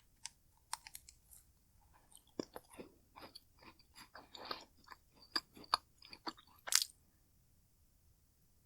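A person biting and chewing macaroons: a quick run of crisp crunches and mouth clicks, thickest in the middle and dying away for the last second or so.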